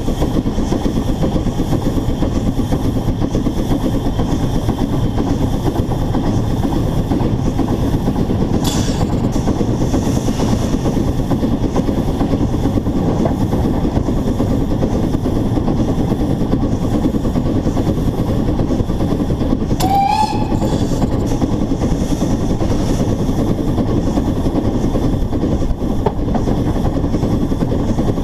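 Narrow-gauge steam locomotive running, heard close up from a camera mounted on the locomotive: a steady, loud running noise, with a brief click about 9 s in and a short whistle blast about 20 s in.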